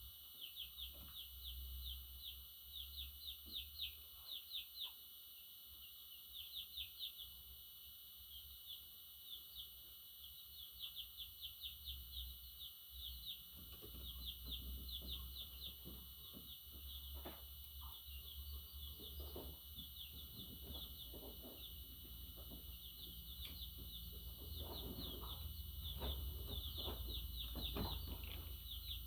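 Budgerigars chirping in quick runs of short, high chirps, pausing and starting again, over a low rumble with scattered soft knocks in the second half.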